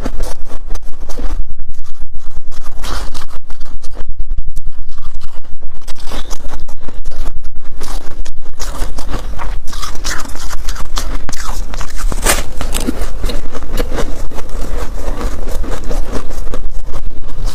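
Freezer frost scraped and crunched close to the microphone: a loud, unbroken run of crisp crackles and scrapes.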